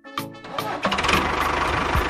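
A small engine starting up and running steadily from about half a second in, under background music.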